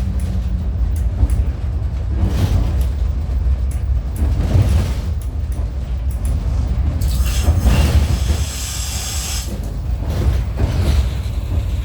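Train running on the rails: a steady low rumble with repeated knocks from the wheels and cars, and a burst of hiss about seven seconds in that lasts a couple of seconds.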